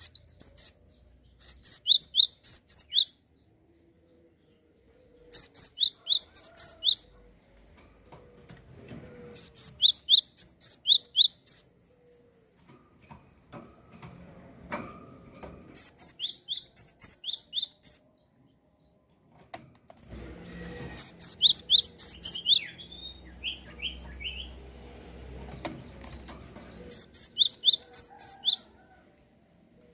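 Java sparrow (gelatik) singing in energetic, full song: about seven bursts of quick, sharp, high notes, each one sweeping downward, with a few seconds' pause between bursts.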